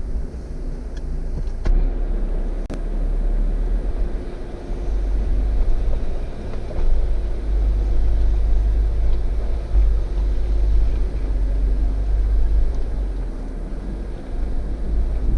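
Jeep engine running at low speed as it crawls over trail rock, a steady low rumble with a couple of sharp clicks about two seconds in.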